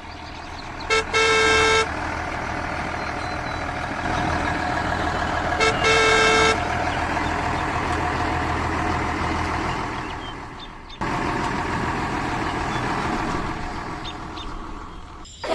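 A vehicle engine running steadily, with a horn honking twice, about four seconds apart. Each honk is a quick toot followed by a longer blast.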